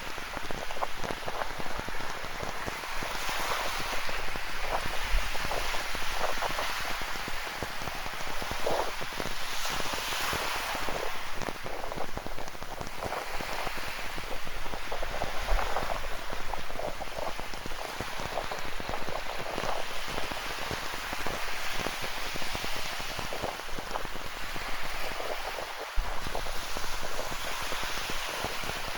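Rain pattering steadily on a surface, with ocean surf swelling and washing in the background every few seconds.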